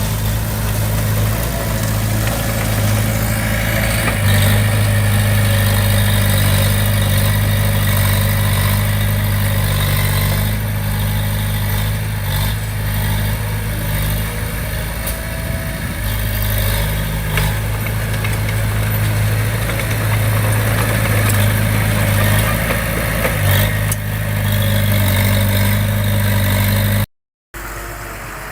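Bulldozer's diesel engine running steadily under light load. Near the end it cuts out for a moment and comes back quieter.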